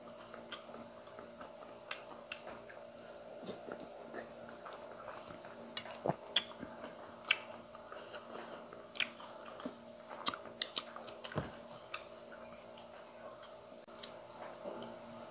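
Quiet chewing with small wet mouth clicks from a person eating rice with fried tempe and anchovies by hand, with scattered light clicks throughout. A faint steady hum runs underneath.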